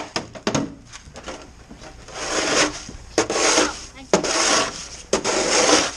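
Snow shovel scraping over snow and pavement in repeated pushes, about one a second, each a harsh rasp with a sharp start. A few sharp knocks come in the first second, before the scraping begins.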